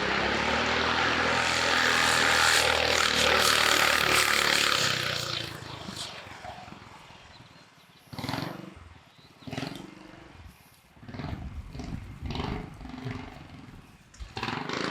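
Small single-cylinder kart engine running loud and steady, then fading away about five seconds in. After that come a string of short separate bursts.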